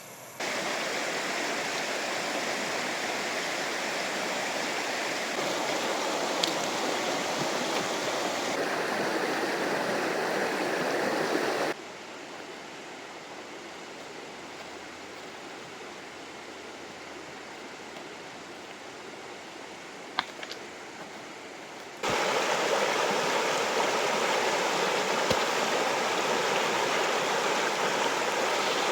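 Fast-flowing river water rushing with a steady noise. Its loudness drops suddenly about twelve seconds in and jumps back up about ten seconds later.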